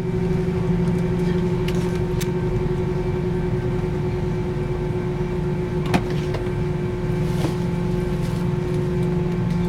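Steady drone of an airliner cabin with a constant low hum, with a sharp click about six seconds in and a few fainter clicks.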